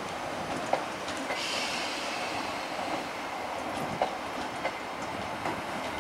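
Northern electric multiple unit rolling over pointwork, its wheels giving sharp clicks over the rail joints at irregular intervals. A brief high wheel squeal comes about a second and a half in.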